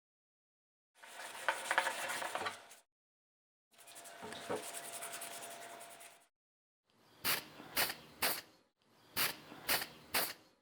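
Scrubbing on a rusty Facit typewriter's metal parts in two short stretches, followed by two sets of three sharp clicks, each click about half a second apart.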